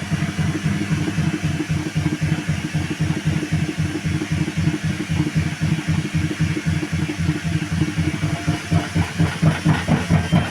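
Washing machine drum spinning up from rinse into the spin cycle, with a fast, even, rhythmic knocking that grows louder near the end. The machine is knocking hard enough that the spin had to be stopped.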